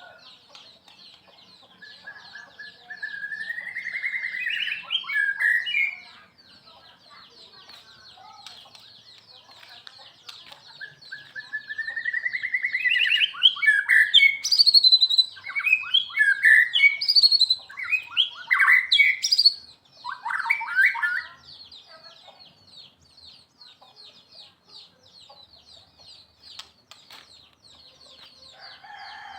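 A murai, a Copsychus songbird, singing: two long phrases, each opening with a rising whistle and running into fast, varied, loud notes, the second phrase longer. A steady high rasping hum runs beneath throughout.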